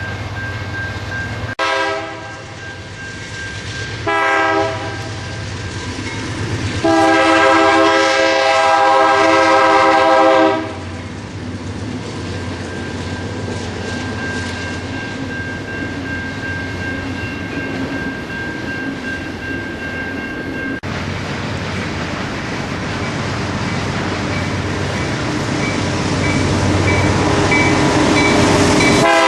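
Diesel freight locomotive's multi-chime air horn sounding two short blasts and then one long blast of about four seconds, over the steady noise of a train running. The train noise grows louder toward the end, and the horn sounds again at the very end.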